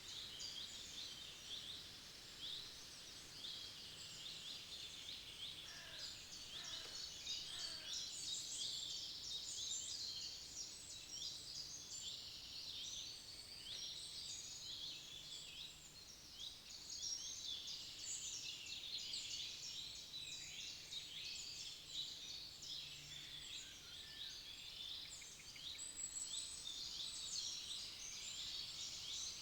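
Many forest songbirds singing at once: a dense, continuous chorus of high chirps and trills.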